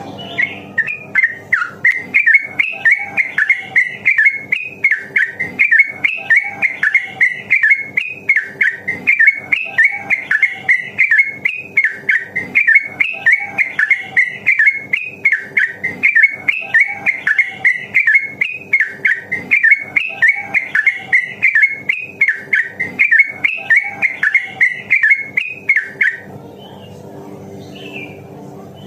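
Yellow-vented bulbul (trucukan) singing a long, fast unbroken run of chattering notes at a fairly even pitch, several notes a second, stopping shortly before the end.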